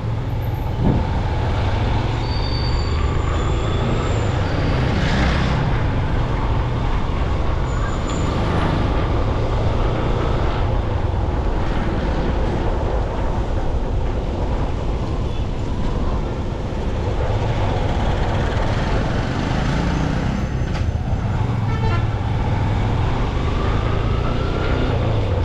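Dense city traffic heard from a moving motorcycle: steady engine and road rumble, with other vehicles' horns honking now and then and engines rising in pitch as they pull away.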